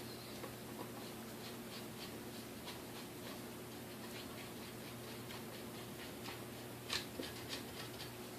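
Faint clicks, taps and scrapes of hands and tools working on small metal parts of a stand mixer being disassembled, with a sharper click about seven seconds in. A steady low hum runs underneath.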